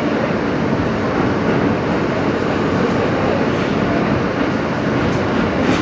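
Steady running noise inside a moving R160B subway car: wheels rolling on the rails and the car body rattling at speed.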